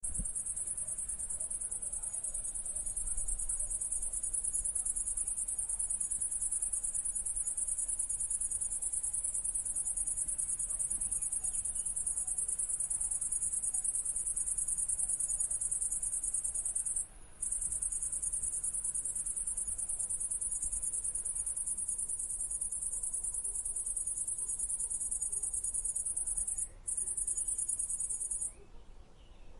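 Crickets singing: a continuous high-pitched chirring that breaks off briefly twice in the second half and stops shortly before the end.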